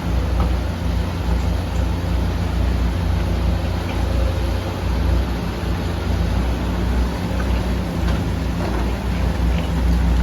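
Excavator's diesel engine running steadily, a constant low hum under an even hiss, with a few faint knocks.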